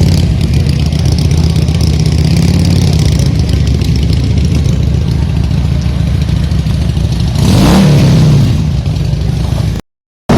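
Motorcycle engine running at a steady idle, with one quick rev that rises and falls about eight seconds in; the sound cuts off abruptly just before the end.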